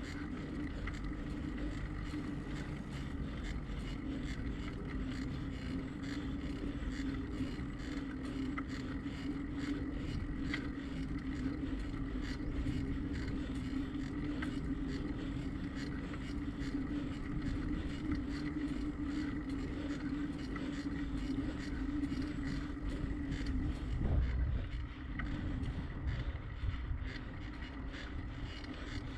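Bicycle in motion: tyres rolling on pavement with a steady hum and wind rumble on the camera mic. The hum stops about 24 seconds in.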